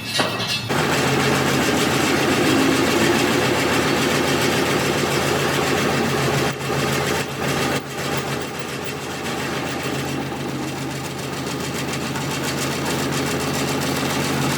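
An engine or motor running steadily, with a constant low hum and brief dips about six and eight seconds in.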